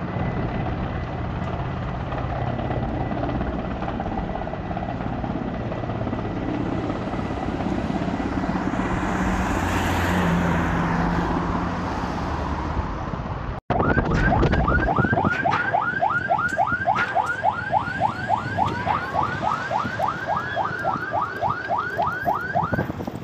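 A firefighting helicopter passing overhead, its rotor and engine noise swelling and then fading. After a cut, an emergency vehicle's siren sounds in a rapid yelp, about three rising sweeps a second, stopping shortly before the end.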